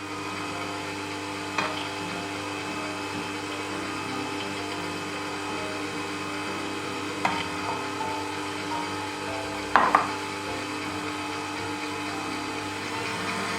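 Electric hand mixer running steadily as it beats eggs in a bowl, with a few sharp knocks. The sound gets louder near the end.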